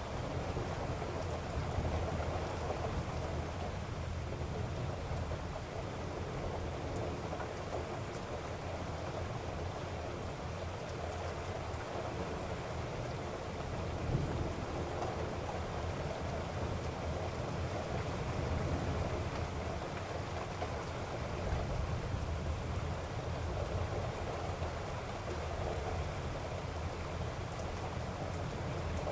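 Steady heavy rain with a low rumble underneath, a stormy ambience.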